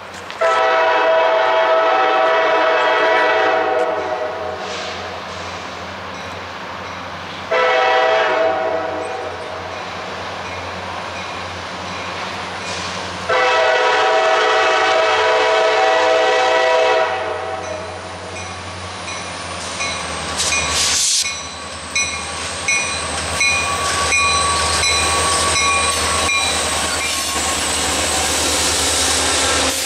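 A locomotive air horn sounds three blasts as a CSX freight led by an SD40-2 approaches: long, short, then long. The locomotives' diesel engines then rumble past, with wheels clicking over the rail joints and a thin high steady whine.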